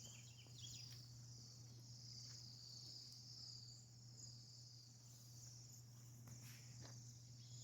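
Faint, steady high-pitched chirring, insect-like, with a few short bird chirps in the first second, over a low steady hum.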